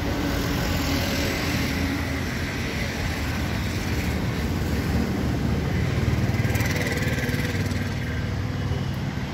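KTM 390 Duke's single-cylinder engine idling steadily, a little louder about six seconds in.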